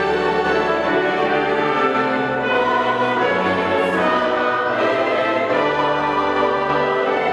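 Choir and orchestra performing sacred concert music, a full sustained sound that carries on without a break.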